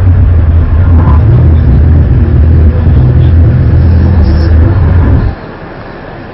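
Loud, deep rumbling drone with a few steady low hum tones, of the kind circulated as the mysterious 'strange sounds' heard in the sky; it cuts off abruptly about five seconds in, leaving a much quieter rumble.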